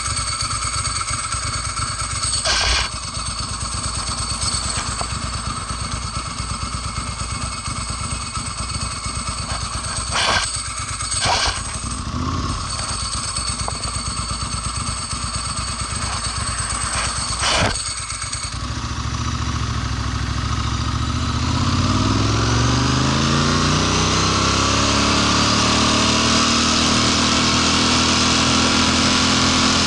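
Ducati Monster S4 V-twin engine running at a low, pulsing idle, with a few short knocks. About 19 seconds in, the engine speed rises steadily and then holds at higher revs. The bike has a fault in which it sputters and cuts out at around 7,000 rpm.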